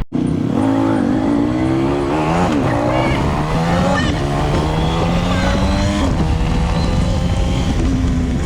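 Honda Super Cub's single-cylinder engine accelerating under way, its pitch climbing in each gear and dropping back at each of about three gear changes, over a low rush of wind.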